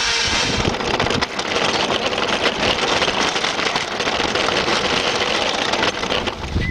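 Electric ride-on toy car driving along: its motor and hard plastic wheels rolling over the ground make a steady, noisy rumble.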